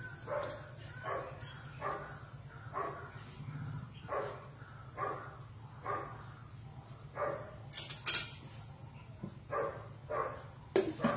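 A dog barking repeatedly, about once a second, over a steady low hum.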